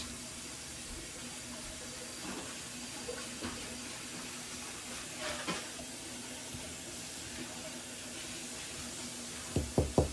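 Steady faint hiss of food sizzling in a frying pan, over a low hum. Near the end a quick run of sharp knocks begins, several a second.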